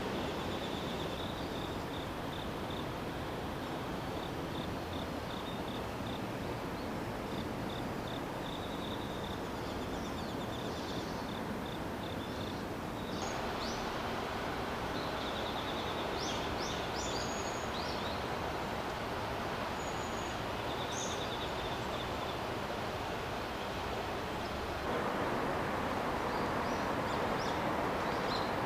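Outdoor ambience: a steady rushing noise, with insects trilling in short repeated pulses and a few brief bird chirps. The background steps up in level suddenly twice, about halfway and near the end.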